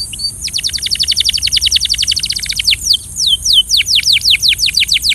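Canary singing: a rapid trill of short downward-sweeping notes, about a dozen a second, then slower, wider downward swoops about four a second.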